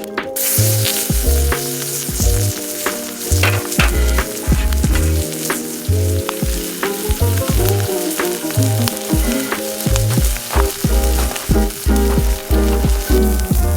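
Food sizzling and frying in a pan, the hiss coming in abruptly just after the start, over background music with a bass line and a steady beat.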